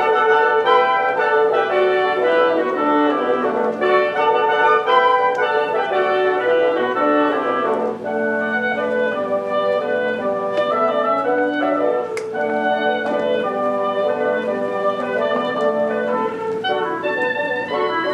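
Live orchestra playing a classical piece, many sustained wind and string notes moving together in a flowing melody.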